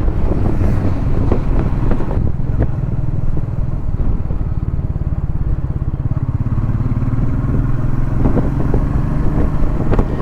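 Royal Enfield Meteor 350's single-cylinder engine running steadily while riding along, heard from on the bike, its note rising slightly near the end.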